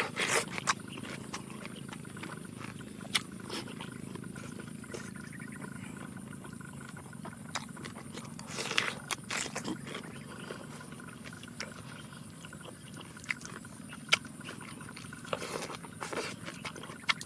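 A person biting into and chewing a raw cucumber: a bite right at the start, another about nine seconds in and a third near the end, with chewing and small mouth clicks in between.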